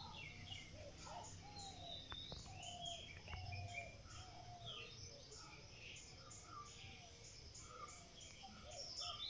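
Birds chirping and calling, many short overlapping chirps and whistles, some sliding down in pitch, with quick high pips repeating over them.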